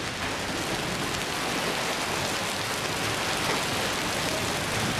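Hailstones about half an inch across, mixed with rain, falling hard and steadily: a dense, even wash of impacts with no single loud hit.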